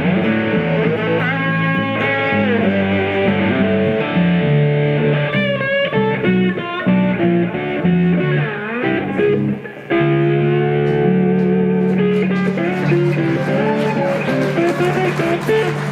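Two guitars playing an instrumental slow blues passage: a seven-string guitar picks the bass line under a lead guitar playing melodic lines with bent notes. The sound drops out briefly just before ten seconds in, then comes back with held notes.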